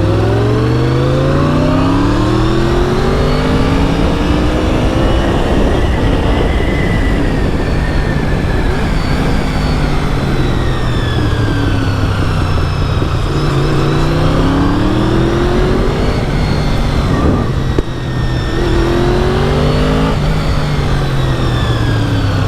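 Honda VFR750's V4 engine running hard under a riding motorcyclist, its pitch rising through the revs and dropping at each gear change, three times over, with a steady rush of wind noise.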